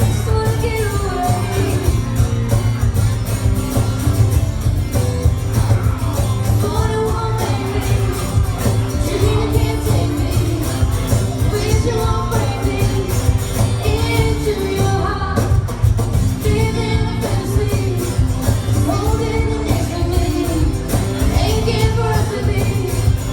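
A woman singing a country song live, with instrumental accompaniment and a steady low bass.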